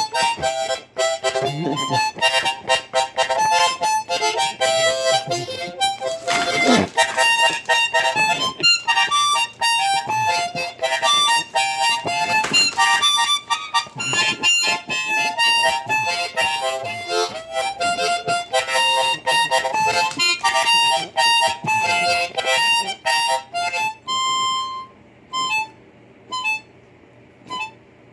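Blues harmonica played in quick runs of notes, breaking off about 24 seconds in and followed by a few single notes.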